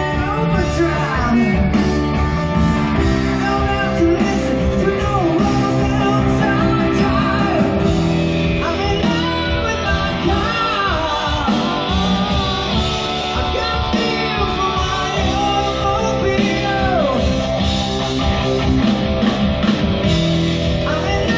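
Live rock music: a band playing with a male lead vocal and electric guitar.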